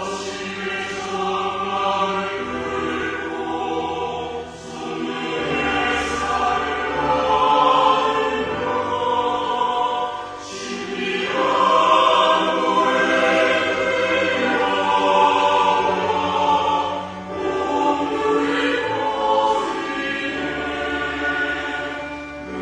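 A church choir singing a sacred anthem in parts, with held low accompaniment notes that change every few seconds underneath.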